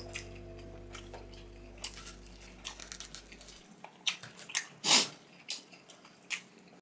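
Close-up eating sounds: chewing, with scattered short wet clicks and smacks, the loudest about five seconds in. A faint steady hum of tones stops about halfway through.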